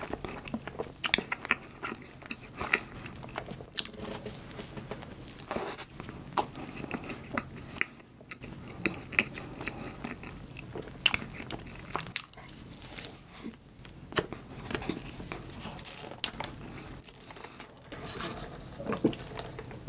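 Close-miked chewing of a soft cream and red-bean bun: irregular wet clicks and smacks of the mouth and bread.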